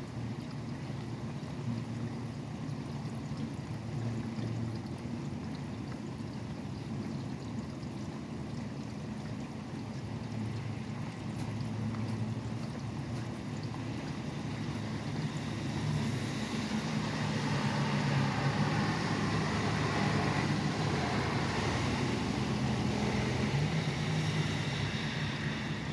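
Steady rain mixed with highway traffic, a low hum of engines and tyres running underneath. In the second half a vehicle's hiss on the wet road swells and stays loud almost to the end.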